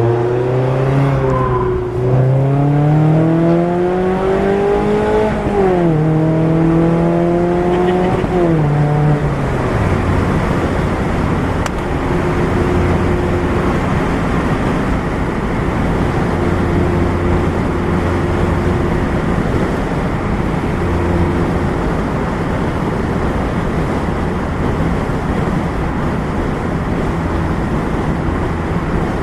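2016 Mazda MX-5 Miata four-cylinder engine through a Goodwin Racing RoadsterSport race exhaust, heard from the driver's seat. It accelerates with a rising note that drops suddenly twice as it shifts up, falls away about nine seconds in, then settles into a steady cruising drone with road noise.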